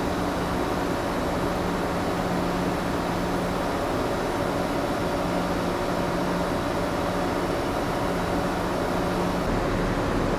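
Steady hum of the ship's running machinery and ventilation inside the moored cargo-passenger ship Ogasawara Maru: a low drone with a few constant tones over an even hiss. The sound changes slightly near the end.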